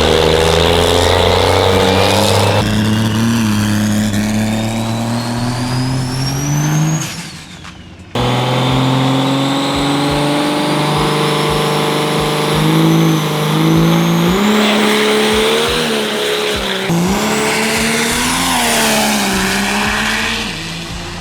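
Diesel drag-racing trucks accelerating hard, engines climbing in pitch with a thin rising whine above them. The sound drops away about seven seconds in; a second run starts abruptly about a second later, its pitch climbing and dipping several times.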